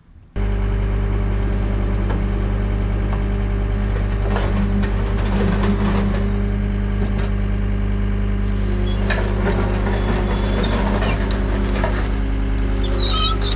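The John Deere 326D skid steer's diesel engine cuts in suddenly about half a second in and runs steadily at idle, with scattered short knocks over it.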